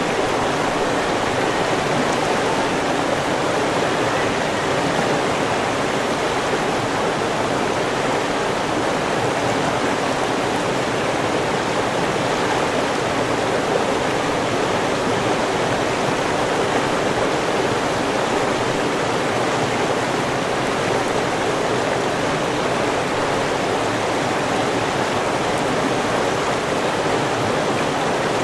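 River water flowing and rushing over stones in a steady, unbroken wash.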